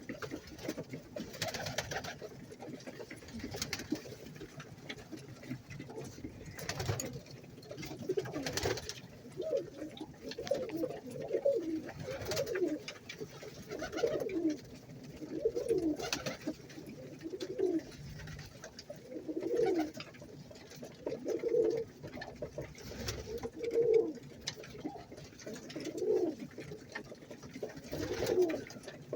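Domestic fancy pigeons cooing in a loft, low rolling coos repeating about every two seconds, with a few sharp clicks or knocks mostly in the first half.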